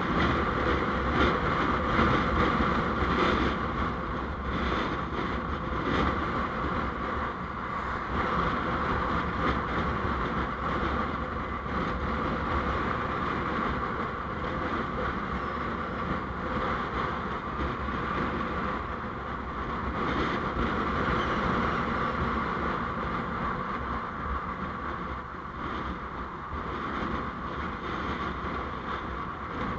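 Steady engine and road noise from a vehicle driving along a road, recorded by an on-board dashcam, with no sharp events standing out.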